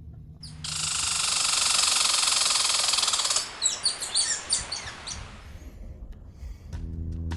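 Food sizzling in a hot frying pan. A loud hiss starts suddenly, then breaks up into sharp crackles and pops as it dies down.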